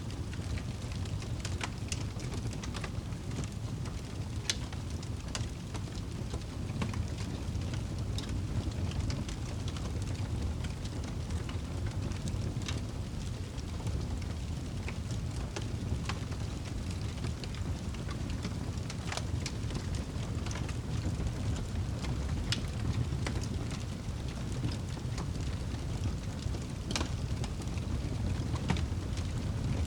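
Log fire in a fireplace crackling: irregular sharp pops and snaps over a steady low rumble of the burning flames.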